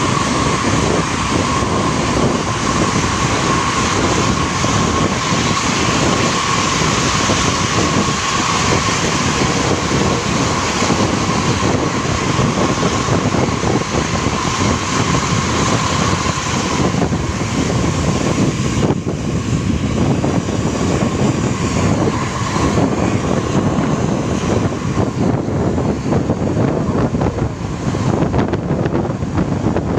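A Sumber Jaya Trans intercity bus's diesel engine running hard at speed, with a steady high whine over it that fades out about two-thirds of the way through.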